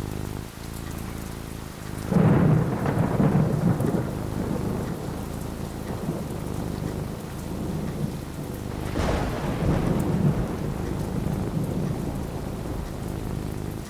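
Thunderstorm with steady rain falling. A loud clap of thunder breaks about two seconds in and rumbles on, and a second crack of thunder comes about nine seconds in.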